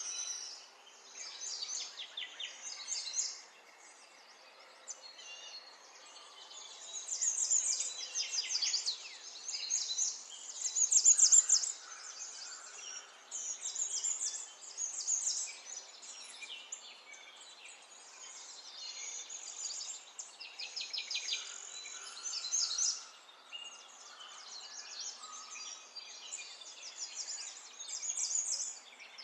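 Songbirds singing: several birds giving quick high chirps and rapid trills in overlapping phrases, loudest a little before halfway through, over a faint steady hiss.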